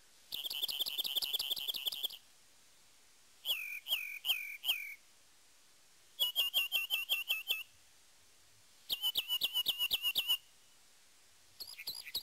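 A bird singing in short, separate phrases of rapid high chirps, one every two to three seconds. One phrase is instead four down-slurred whistles.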